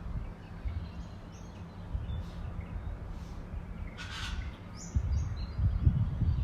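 Wild birds calling at dawn: scattered short, high chirps and whistles, with a brief harsh call about four seconds in. A low rumble runs underneath and grows louder near the end.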